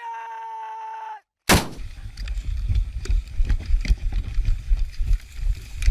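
A steady pitched tone for about a second, then a sudden loud shot about a second and a half in. Irregular gunfire follows, over heavy wind rumble on the microphone.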